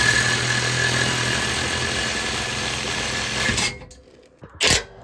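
Reciprocating saw (Sawzall) cutting through the stock exhaust pipe, running steadily with a low hum and a high whine, then stopping about three and a half seconds in. A brief second burst of the saw comes near the end.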